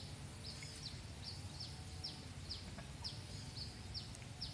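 A bird calling over and over: short, high notes that drop in pitch, about two a second, over a steady low rumble.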